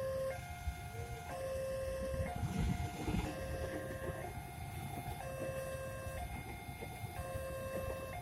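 Electronic railway level-crossing alarm sounding a two-tone signal, a lower and a higher pitch alternating about once a second, over a low rumble of wind and traffic.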